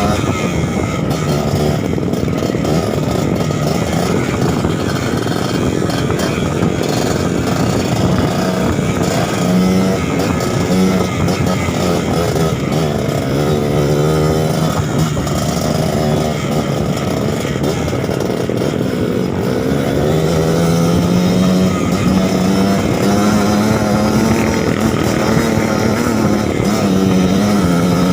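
Trail motorcycle engine running under load, its pitch rising and falling with the throttle, a little louder in the latter part.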